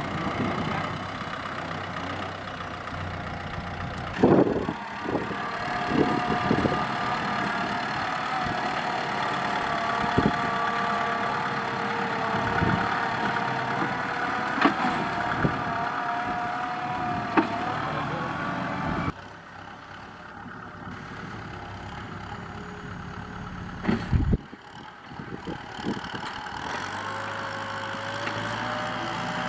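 Kubota M6040SU tractor's diesel engine running steadily while pushing soil, with a level whine over it and scattered clanks and knocks. The sound drops suddenly to a quieter level about two-thirds of the way through.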